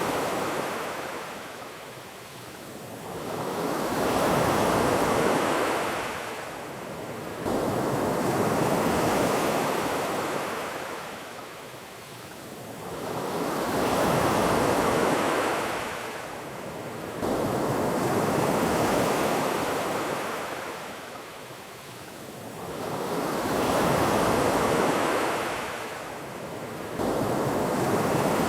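Ocean surf: waves wash in and draw back in slow swells about every five seconds. Three times, about ten seconds apart, the level steps up abruptly.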